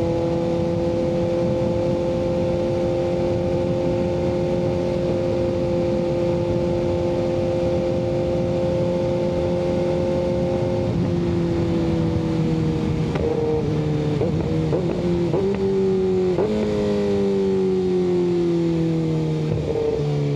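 Kawasaki ZX-6R inline-four with an M4 exhaust holding steady revs at cruise, then falling in pitch about halfway through as the throttle is rolled off and the bike is shifted down several times, each shift marked by a short jump in the engine note. Steady wind rush runs underneath.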